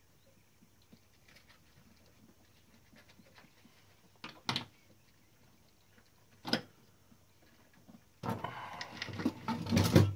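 Clinks and rattles of small metal typewriter parts and tools being handled during repair: a short clatter twice, then a longer busy stretch of rattling near the end.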